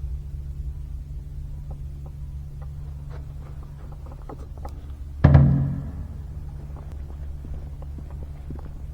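A single loud, resonant knock about five seconds in that rings briefly, over a steady low rumble with faint scattered clicks.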